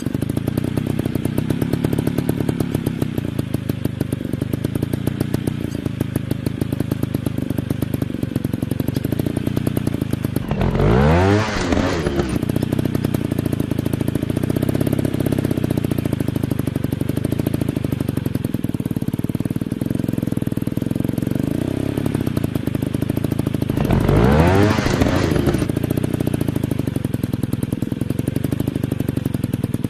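Dirt bike engines running steadily, with a fast firing rhythm. A motorcycle revs up sharply twice, briefly and louder, about eleven seconds in and again about twenty-five seconds in.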